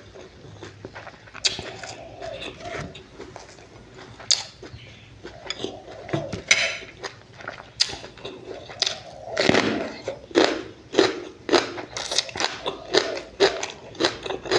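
Close-up mouth sounds of a person eating fish roe with dipping sauce: chewing and lip-smacking, with sharp clicks that come about twice a second from about ten seconds in.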